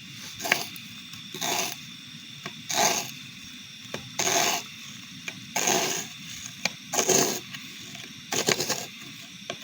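Seven short scraping strokes in an even rhythm, about one every second and a half.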